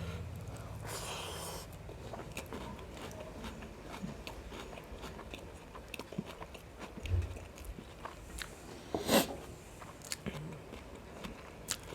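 Close-miked chewing and eating of biryani with mutton gravy: many small wet mouth clicks and smacks. There is a dull low thump about seven seconds in and a louder sharp noise about nine seconds in.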